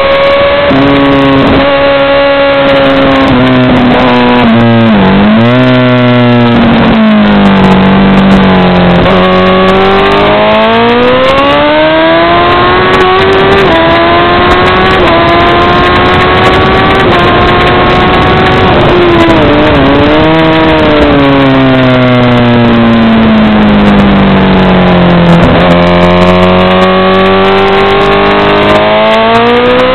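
Honda CBR1000RR (SC57) inline-four engine heard onboard at track pace: the revs climb in steps through upshifts, then fall sharply with quick downshift blips under braking, twice, before pulling up again out of the corners.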